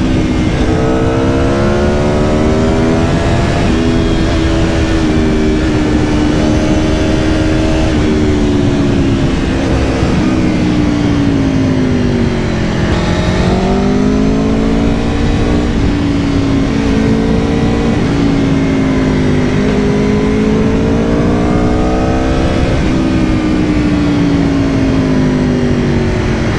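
2022 Aprilia Tuono V4 Factory's V4 engine running under way, its pitch rising and falling as the throttle is rolled on and off, with a dip a little before halfway and a climb back up after it. An even rush of wind and road noise runs beneath it.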